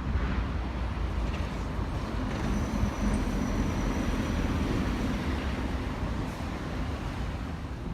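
Street traffic: motor vehicles running past in a steady rumble, with a faint high whine in the middle.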